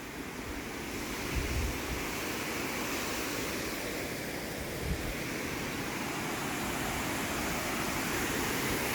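Steady rush of water flowing out of a dam, growing gradually louder, with two brief low thumps about one and a half and five seconds in.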